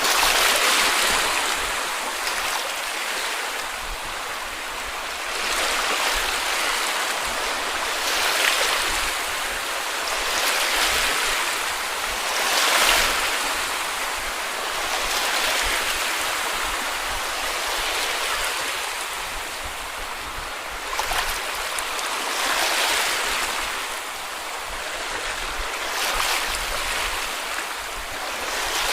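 Small sea waves washing onto a beach, each wash swelling and fading every two to three seconds.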